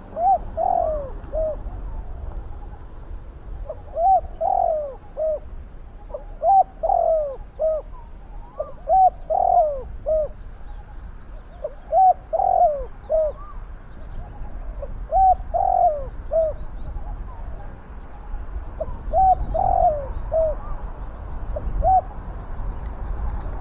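Spotted dove cooing: about eight short phrases of three or four coos each, repeated every two to three seconds.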